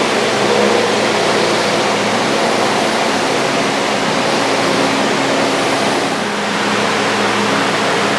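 Steady, loud hissing noise of a shop machine's motor running, with a faint hum underneath and a slight dip about six seconds in.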